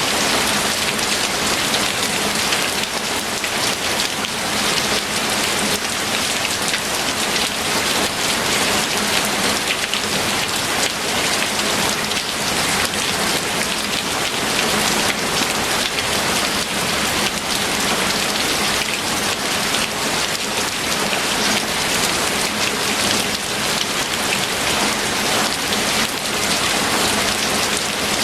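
Steady, heavy rain falling and pattering on a surface, a dense even hiss with fine drop impacts throughout.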